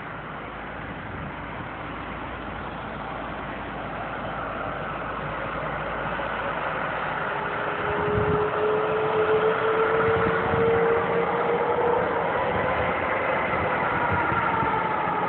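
Boeing 777-200's Pratt & Whitney PW4090 turbofan engines on departure, a jet noise that grows steadily louder. In the second half whining tones come in and slide down in pitch.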